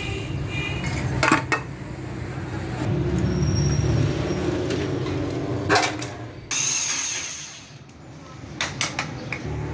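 Metal tools and motorcycle parts clinking and knocking during disassembly, a handful of sharp clanks over a low steady rumble, with a brief hiss about two-thirds of the way through.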